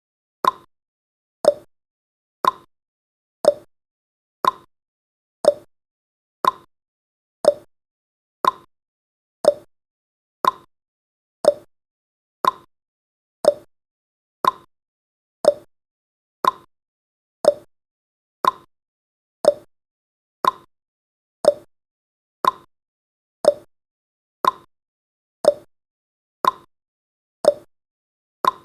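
Countdown timer's ticking sound effect, one short sharp tick every second, each dying away quickly.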